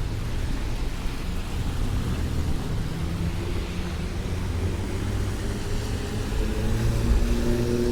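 City street traffic: a steady low rumble of passing vehicles with a hiss of tyres on a wet road.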